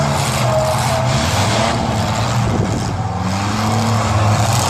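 Engines of derby trucks revving and running hard, their pitch rising and falling.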